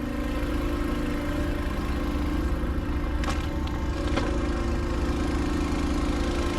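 Small gasoline engine on a transfer pump running steadily while filling, with two light knocks about three and four seconds in.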